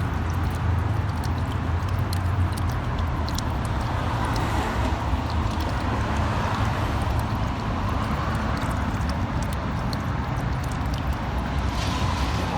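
Rainwater running through a pipe, an echoing steady rush with a strong low hum and scattered small clicks.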